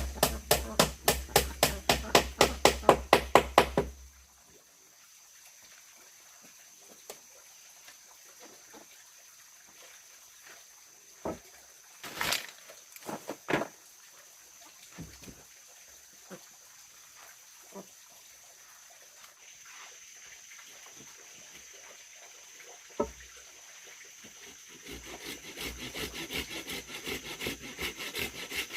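Hand sawing through wood, fast back-and-forth strokes about five a second, stopping about four seconds in. A few scattered knocks of wood follow, and the sawing strokes start again near the end.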